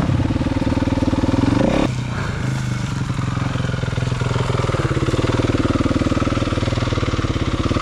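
Four-stroke single-cylinder dirt bike engine running hard, close up. Its pitch climbs for about two seconds, drops suddenly, then holds steady.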